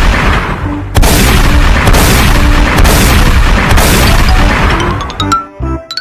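Loud booming sound effect with music: a noisy blast that breaks off briefly about a second in, hits again at full loudness and fades away near the end.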